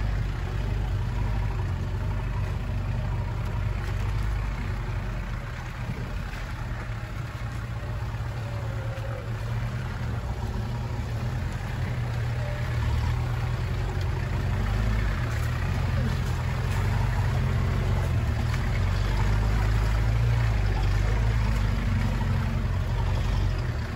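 Land Rover 4x4's engine running while driving off-road, a steady low rumble that grows louder about halfway through.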